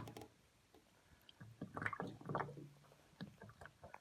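Water glugging and gurgling as it drains out through the partly opened drain filter of a Beko WTL84151W front-loading washing machine, a faint cluster of gurgles about one and a half to three seconds in.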